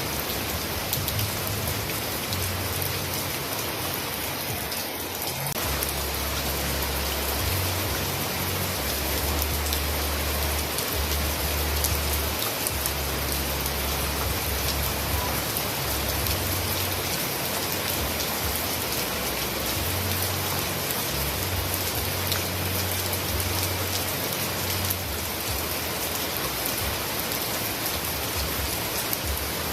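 Heavy rain falling steadily: a dense, even hiss of drops, with a low rumble that comes and goes underneath through the middle.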